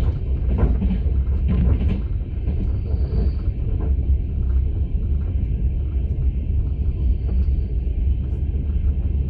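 Russian long-distance passenger train running, heard from inside an open-plan sleeper car: a steady low rumble of the carriage on the rails.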